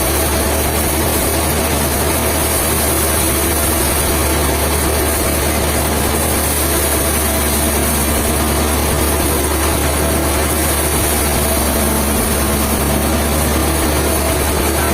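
An engine running steadily at an even speed, with a deep hum and no change in pitch.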